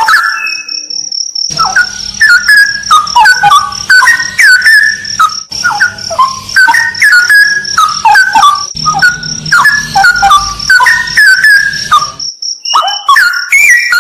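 Straw-headed bulbul (cucak rawa) singing loud, rich phrases of gliding whistled notes, pausing briefly about a second in and again near the end. A steady high insect trill runs behind the song.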